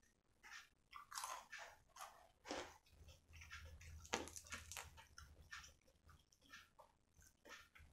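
A person chewing and biting crispy fried chicken with sambal matah: irregular crisp crunches and chews, the sharpest crunch about four seconds in.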